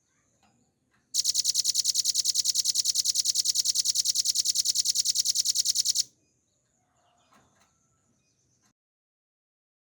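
Velvet-fronted nuthatch (rambatan paruh merah) singing a fast, even trill of high notes, about twelve a second. It starts about a second in, runs for some five seconds and stops abruptly.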